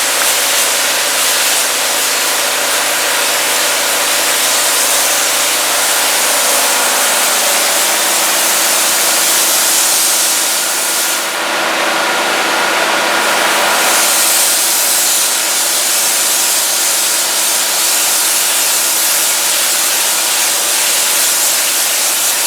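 Hot-water pressure washer gun and wand spraying at high pressure, a loud steady hiss, over the pressure washer's engine running steadily. The spray hiss eases briefly about halfway through, then comes back.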